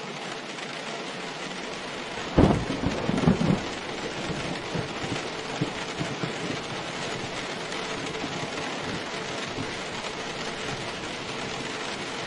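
Steady heavy rain, with a sudden clap of thunder about two seconds in that rumbles on for a second or so and fades back under the rain.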